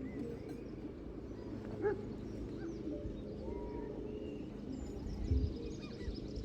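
Lakeside outdoor ambience: birds calling in short chirps over a steady low background rumble, with two dull thumps, about two seconds in and again near the end.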